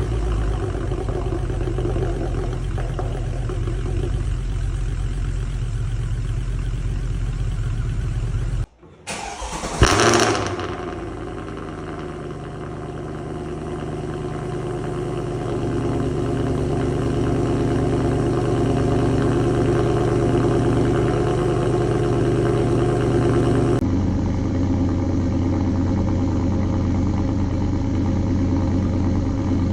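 Mercedes-AMG C63 S V8 engine idling. About nine seconds in the sound drops out briefly, then the engine starts with a loud flare and settles back to a steady idle.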